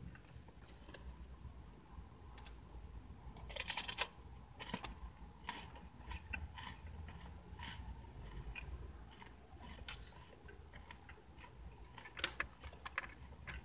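Close-up chewing and mouth sounds of someone eating, with many short crunchy clicks and wet smacks. A louder crackly burst comes about four seconds in, and another cluster near the end.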